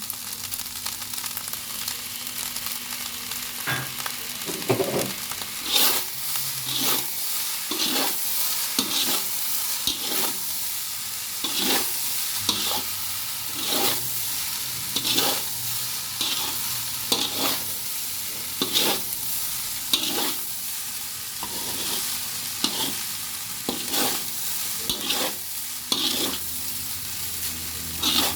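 Vegetable fried rice with tofu sizzling in a hot pan while being stirred, the stirring utensil scraping and knocking against the pan about once a second.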